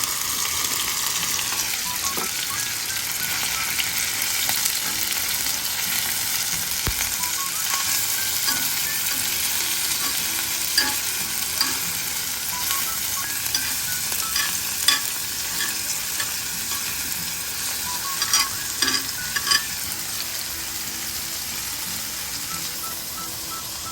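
Food frying in a pan, sizzling steadily, with a few sharp clicks of a utensil stirring and tapping against the pan.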